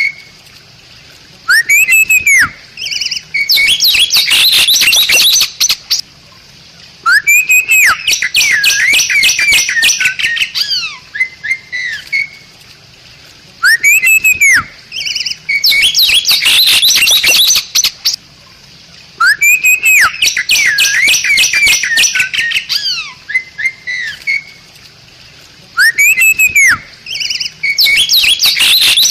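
Bali myna singing. The same phrase comes about every six seconds, five times: a loud whistle that rises and falls, then a few seconds of harsh, rapid chattering notes, with short quiet gaps between phrases.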